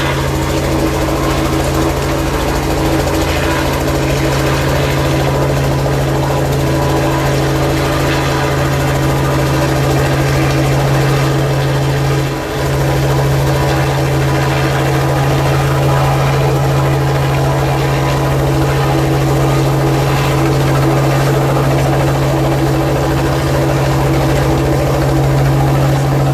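Helicopter running with a loud, steady drone and a constant low hum, dipping briefly about twelve seconds in.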